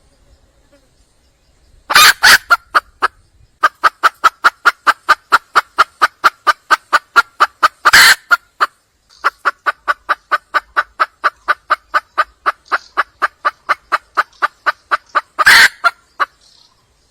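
Red junglefowl hen clucking in long rapid runs, about four or five clucks a second, broken by three louder, harsher calls: a hen calling for a mate.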